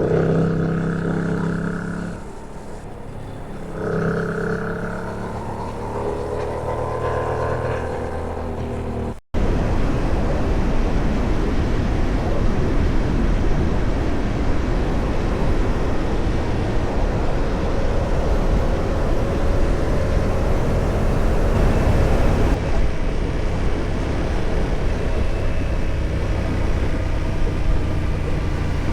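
Yamaha MT-07's 689 cc parallel-twin engine running on the move, its pitch shifting with throttle and gear changes. About nine seconds in the sound cuts abruptly, and a steady rush of wind and road noise takes over, with the engine underneath slowly rising in pitch.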